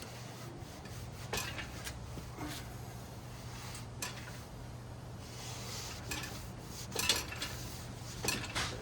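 Scattered light metallic clinks and knocks, with some rubbing, as a rag scrubs the rear wheel rim of a motorcycle and the wheel is handled.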